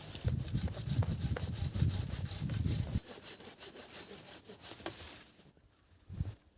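A hand saw cutting through wood in quick, regular back-and-forth strokes that stop about five seconds in.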